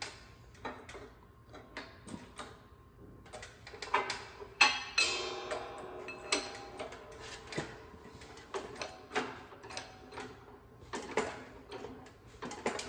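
Hand-tool work on metal parts: scattered irregular clicks and taps, with a louder metallic clatter and brief ringing about five seconds in.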